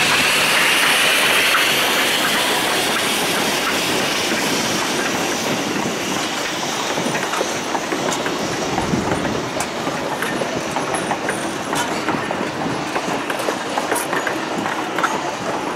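Narrow-gauge steam-hauled passenger train rolling past, a steady rumble of cars with wheels clicking over rail joints, the clicks growing more distinct after the first half. A high hiss fades away over the first few seconds.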